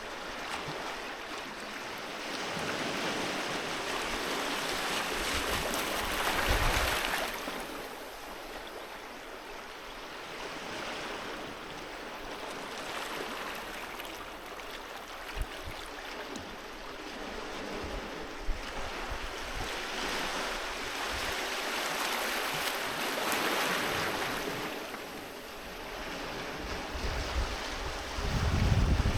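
Sea waves breaking and washing up the shore, the surf swelling and ebbing twice in long surges. Near the end comes a short, loud, low rumble, like wind buffeting the microphone.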